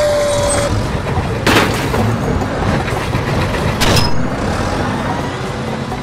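Dubbed-in heavy-machinery sound effects: a steady engine rumble, a short steady tone at the start, and two short loud noises, about a second and a half in and again near four seconds.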